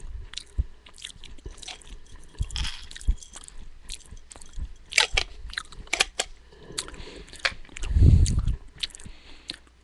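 Chewing and crunching of uncooked, sprouting beans and grains close to a headset microphone: a string of short crisp crunches. A short low rumble about eight seconds in is the loudest moment.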